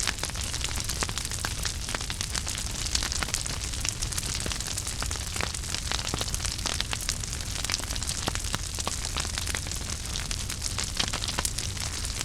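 Wood fire in a fireplace burning steadily, with dense irregular crackles and pops over a low rumble and hiss.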